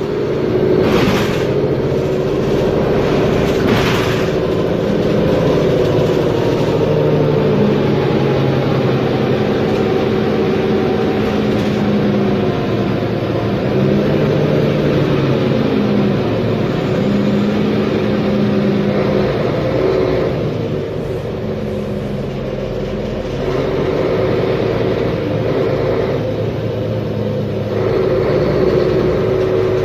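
Mercedes-Benz Conecto G articulated bus's OM457LA inline-six diesel engine running, its steady note changing pitch several times and easing off for a few seconds about two-thirds of the way through.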